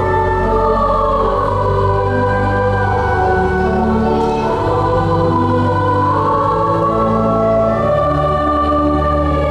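A school choir sings with pipe organ accompaniment, holding sustained chords over steady low organ notes.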